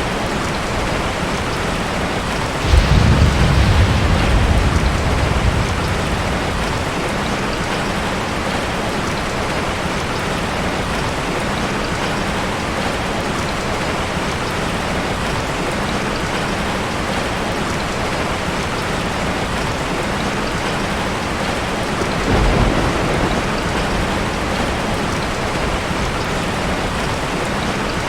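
Heavy rain drumming steadily on a tin roof. A sudden rumble of thunder breaks in about three seconds in and dies away over a few seconds, and a weaker rumble comes near the end.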